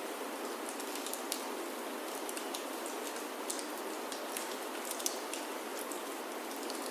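Steady rain falling on a wooden chalet roof, an even hiss with many scattered sharp ticks, mixed with the crackle of a wood fire in a fireplace.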